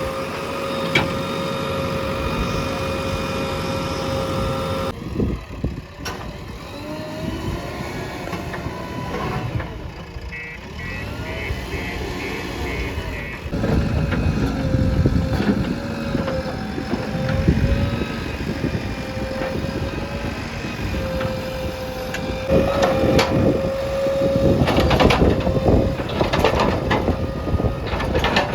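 Heavy diesel machinery running at a loading site: the engines of a backhoe loader and trucks. About eleven seconds in there is a quick run of about seven short beeps, and the engine noise grows louder with sharp knocks near the end.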